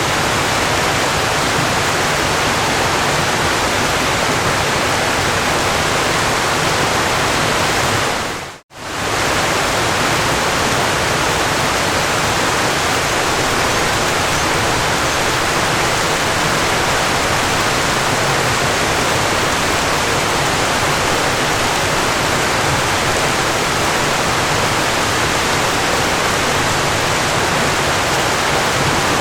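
Steady, even rush of falling water, like a waterfall. About eight and a half seconds in it fades out to near silence and straight back in within about half a second.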